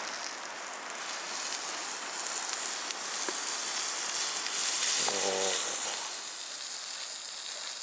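Food sizzling as it cooks: a steady hiss. A short voice sound comes about five seconds in.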